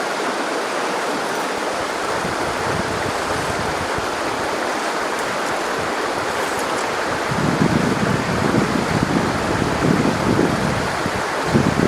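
River water rushing steadily in an even hiss. From about seven seconds in, uneven gusts of wind buffet the microphone in low rumbles over the water.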